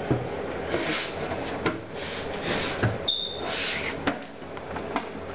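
Handling a desktop computer case: a series of sharp clicks and knocks with rustling and scraping of the case parts, and a brief high squeak about three seconds in.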